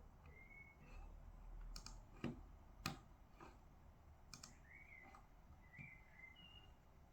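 Faint, scattered clicks and taps from desk work, the loudest about three seconds in, with a few faint short high chirps between them.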